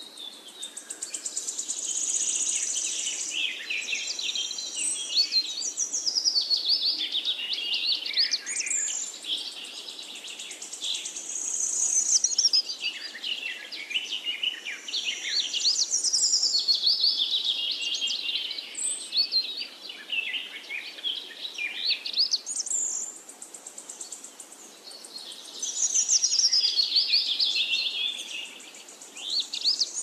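Small birds chirping and singing, a dense run of high, quick twittering phrases that swell and ease off every few seconds.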